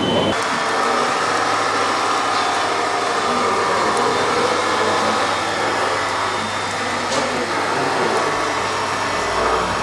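Radio-controlled model construction trucks running: a steady mechanical whir of small motors with a whine on top.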